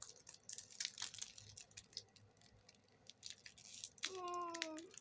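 Foil trading-card booster pack wrapper being torn open and crinkled: a run of quick crackles and tears. About four seconds in, a short hummed vocal sound that falls slightly in pitch.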